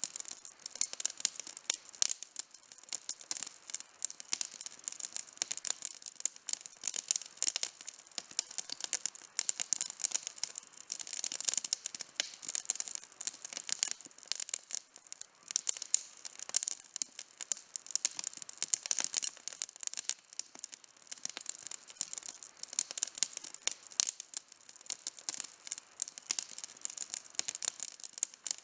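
Outdoor wood campfire burning, with dense, continuous crackling and popping of many sharp little snaps.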